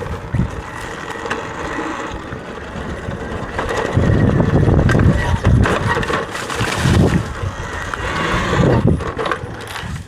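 Wind buffeting on the microphone and rumble as a Talaria electric dirt bike rides down a dirt trail. It gets heaviest from about four to seven and a half seconds in.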